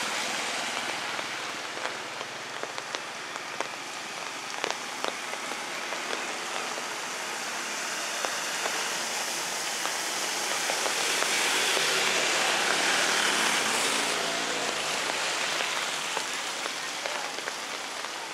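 Steady rain falling on a wet street and pavement, with scattered louder drips. From about ten seconds in, a vehicle passes on the wet road: the swish of its tyres and its engine grow louder, then fade.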